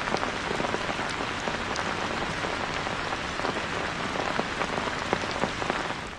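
Heavy rain falling: a dense, steady hiss with many distinct drop impacts. It fades away at the very end.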